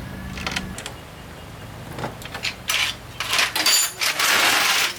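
Metal tools and parts clinking and knocking, then a loud hiss lasting about a second and a half near the end.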